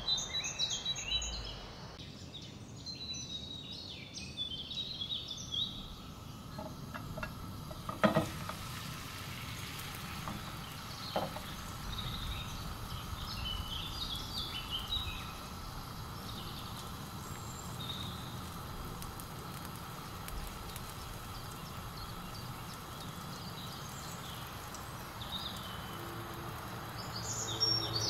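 Beaten eggs frying in an oiled pan with a steady sizzle, birds chirping in the background. A single sharp clack about eight seconds in.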